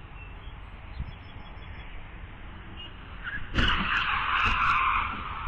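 Dashcam recording of a car collision: steady road noise, then about three and a half seconds in a sudden crash with sharp impacts, followed by about a second and a half of harsh skidding noise.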